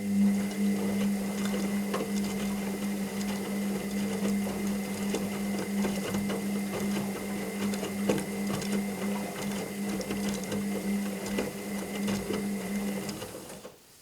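Washing machine motor turning the drum during a wash cycle: a steady hum with a faint high whine and scattered light knocks. It stops near the end.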